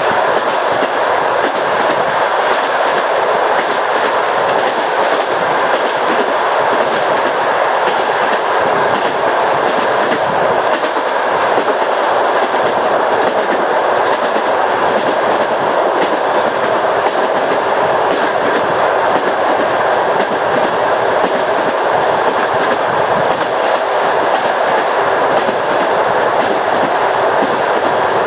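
Railway carriage wheels running over jointed track: a steady rolling rumble with the clickety-clack of the wheels crossing the rail joints.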